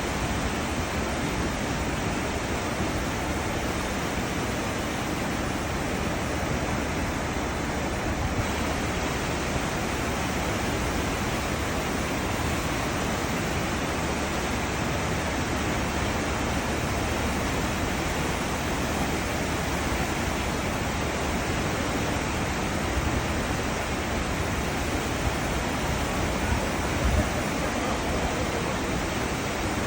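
A cruise ship's wake: seawater churning and rushing steadily, with a low rumble underneath.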